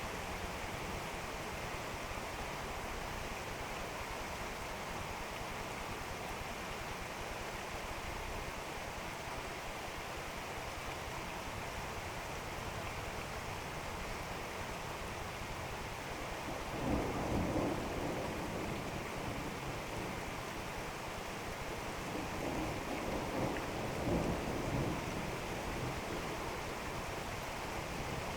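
Rain falling steadily during a thunderstorm. A little over halfway through, a clap of thunder starts suddenly and rumbles for a second or two. Near the end, another longer rumble of thunder swells and fades with several peaks.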